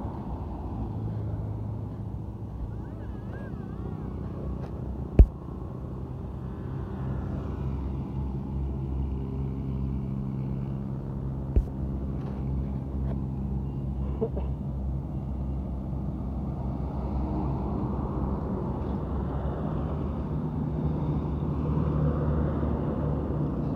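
Truck engine running steadily under way, a low hum with slow shifts in pitch, with two sharp knocks about five and eleven seconds in.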